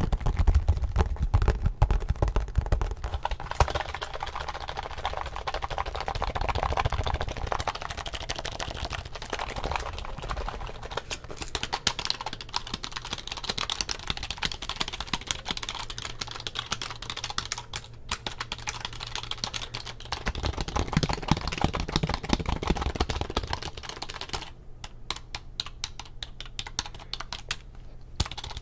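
Rapid typing on an Acer computer keyboard, a dense run of key clicks that thins to fewer, separate keystrokes near the end.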